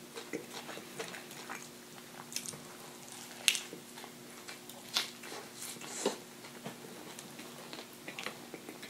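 Close-up mouth sounds of biting into and chewing a crispy fried chicken sandwich: scattered crunches of the breading, the sharpest about three and a half seconds in, over a faint steady hum.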